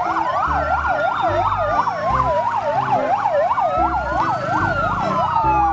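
Emergency siren going steadily: a rapid yelp, about four to five sweeps a second, layered over a slower rising and falling wail, with a low pulsing beat underneath.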